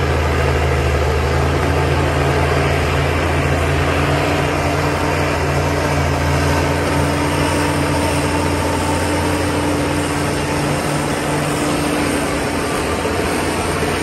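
Heavy diesel engine of earthmoving equipment running steadily at a constant speed, with a deep, even hum and a faint steady whine above it.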